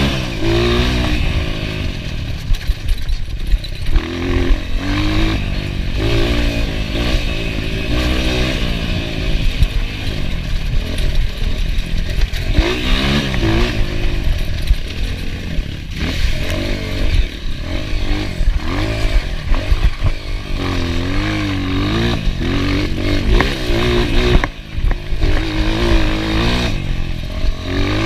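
Enduro dirt bike engine revving hard and backing off again and again, its pitch rising and falling, with rattling and scraping from the bike over rough ground.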